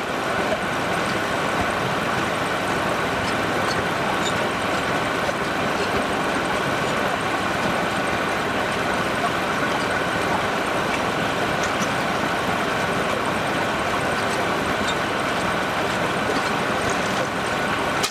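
Sawmill machinery running steadily: a dense, even mechanical whir with a faint steady hum in it, cutting off abruptly at the end.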